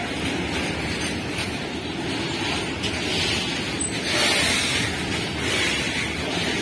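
Freight train of tank wagons passing close by at speed: steel wheels running on the rails with a steady, even noise, a little louder and hissier about four seconds in.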